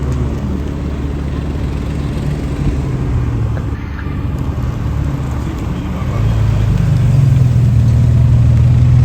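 A car engine running steadily, growing louder about six seconds in.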